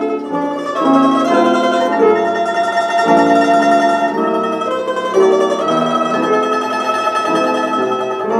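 A plucked string instrument playing a melody, one note following another about every half second to a second.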